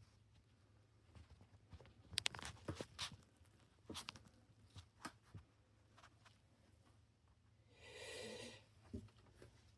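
Faint clicks and taps from handling the CD changer's parts and screws during reassembly, scattered over a few seconds. A short soft rush of noise comes about eight seconds in.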